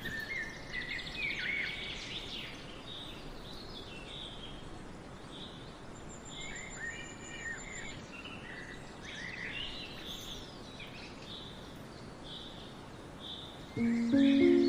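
Several small birds calling and singing, short repeated chirps and whistles, over a steady hiss of rain. Music comes in near the end.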